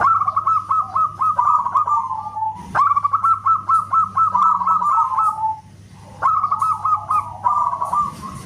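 Zebra dove (perkutut) singing a loud, whistle-like song in three phrases of rapid staccato coo notes, each phrase lasting two to three seconds with short breaks between them.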